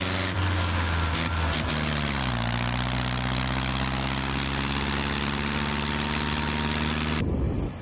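An engine running under a steady hiss; its pitch drops about two seconds in and then holds at a lower steady speed, and the sound cuts off abruptly near the end.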